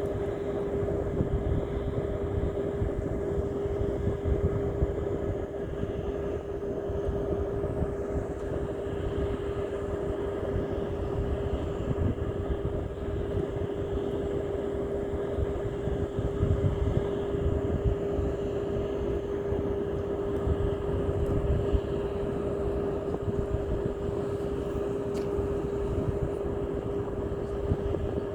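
An engine or motor running steadily, a constant pitched hum over a low rumble that does not change.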